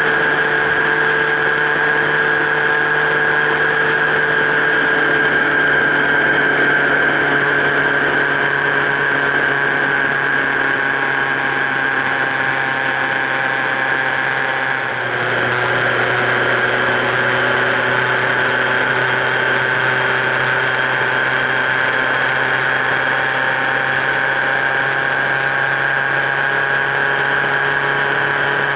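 Motorcycle engine running steadily at highway speed, picked up by a camera mounted on the bike's frame, with a high steady whine over the engine note. About halfway through the note steps down to a lower pitch.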